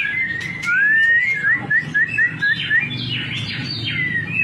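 White-rumped shama (murai batu) singing: a clear whistled note rising in pitch, then a quick run of about seven short rising notes, followed by more varied whistles and falling glides.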